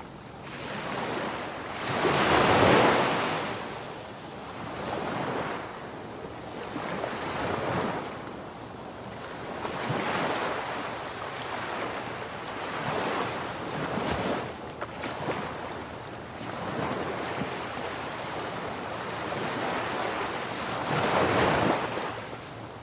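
Ocean waves surging and washing in. Several slow swells come and go, the loudest about two seconds in and again near the end.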